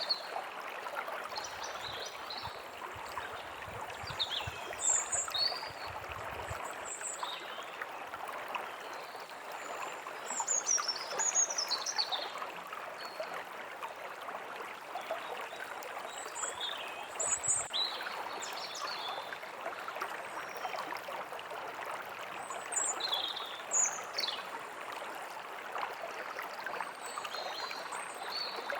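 A stream running steadily over stones, with small birds chirping now and then in short, high calls and quick sweeping notes.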